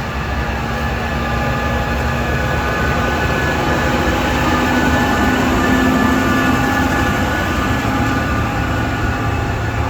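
Tractor engines running as tractors drive past, a steady mechanical drone with a low rumble that swells to its loudest about halfway through and then eases off.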